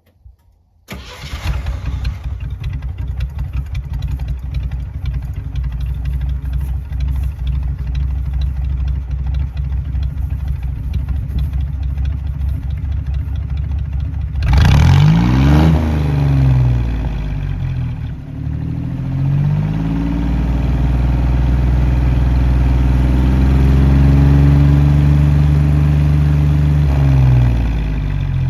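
Jeep CJ5's Dauntless V6 starting about a second in and idling through 2-inch Flowmaster Super HP-2 mufflers with tailpipes. From about halfway it is revved up and down several times, then held at higher revs for several seconds before settling back near the end.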